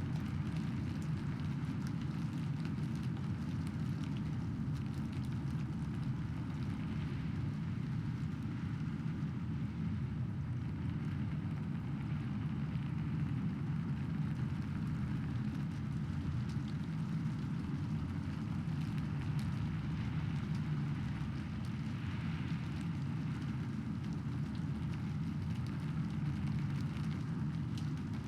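Steady rainfall with a constant low rumble underneath and fine pattering drops. No single thunderclap stands out.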